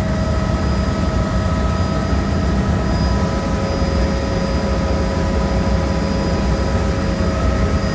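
Helicopter engine and rotor noise heard from inside the cabin: a loud, steady drone with several constant whining tones over it.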